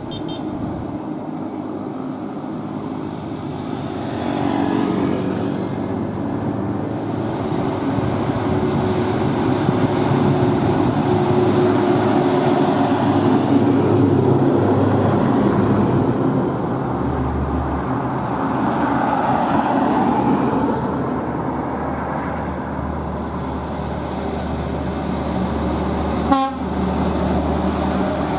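Heavy diesel truck engine running steadily while the truck is on the road, louder from about four seconds in, with a brief knock near the end.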